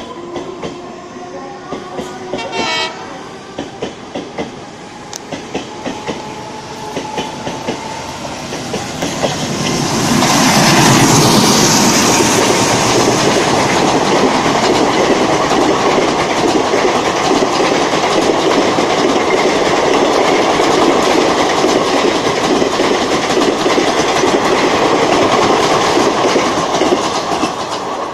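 Express train running through a station at speed without stopping. A multi-note horn sounds for the first several seconds of its approach. At about 10 s the train reaches the platform, and the passenger coaches rush and clatter past over the rail joints for most of the rest, fading as the last coach goes by.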